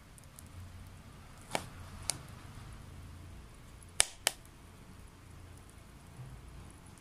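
Wet wood burning in a homemade secondary-combustion stove, with a low steady rumble and sharp pops: two about one and a half and two seconds in, and a louder pair about four seconds in.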